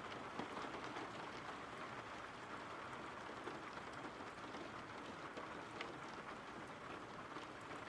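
Steady, faint rain falling: an even patter with a few scattered single drop taps.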